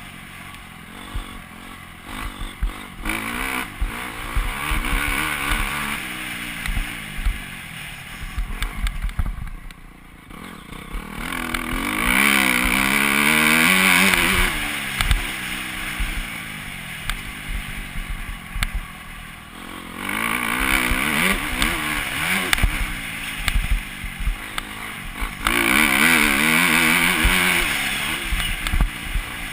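Motocross bike engine revving up and easing off again and again as it is ridden round a dirt track, with louder full-throttle surges about twelve seconds in and near the end.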